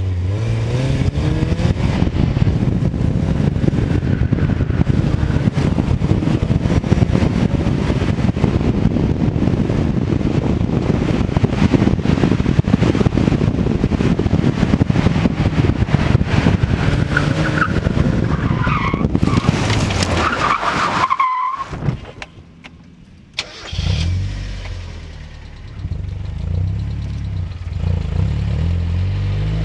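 An open roadster's engine revving hard through an autocross course, its pitch rising and falling with gear changes and corners. About nineteen seconds in the tires squeal, then the engine suddenly cuts out and goes almost quiet for about two seconds before it fires again and runs at a steady low idle: the car has spun and stalled.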